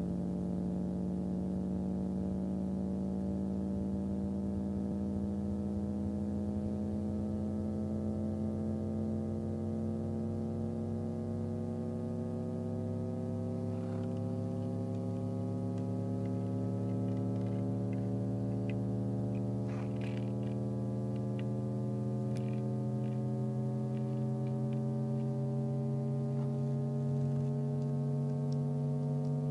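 JBL 2235H 15-inch woofer playing a slowly rising test tone, thick with overtones, as it is checked before repair. From about halfway in, short ticks and buzzes come and go over the tone.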